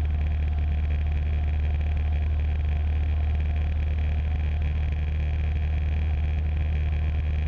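Cessna 150's four-cylinder Continental O-200 engine and propeller droning steadily at cruise power in flight, heard in the cabin through the aircraft intercom audio feed.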